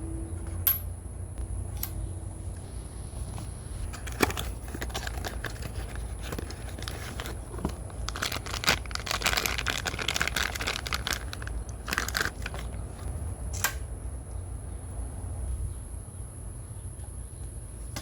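Handling noises: rustling and crinkling, loudest for a few seconds in the middle, with scattered sharp clicks and knocks over a low steady hum.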